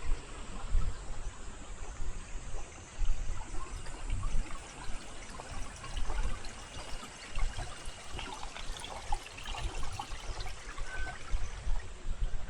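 Spring-fed stream trickling and flowing steadily, with irregular low rumbles.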